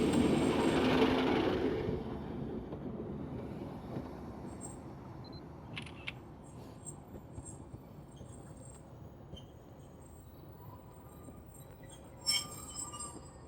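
A train running past, loud for the first couple of seconds, then fading away to a faint rumble. A few light clicks follow, the clearest a brief cluster near the end.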